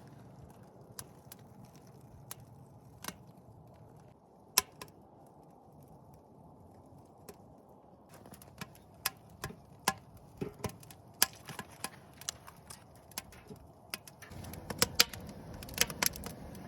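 Wood campfire crackling, with sharp snaps and pops that come more often from about halfway through. Near the end a steadier low rush of flame rises under the pops as the fire takes hold.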